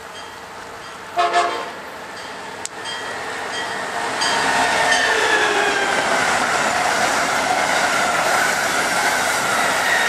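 Amtrak Acela Express high-speed trainset sounding one short horn blast about a second in, then passing at speed. The loud rush of wheels on rail and air builds over a few seconds and holds, with a whine that falls in pitch as the train goes by.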